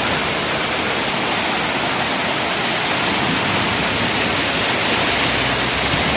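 Heavy storm rain with strong wind, a loud steady rush that does not let up.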